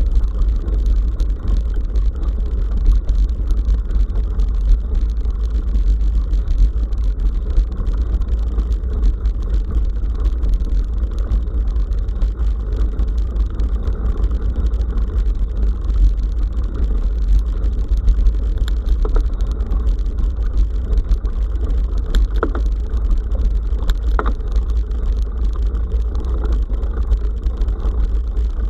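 Steady low rumble of wind and riding vibration on an action camera's microphone during a bicycle ride, with faint scattered clicks and rattles.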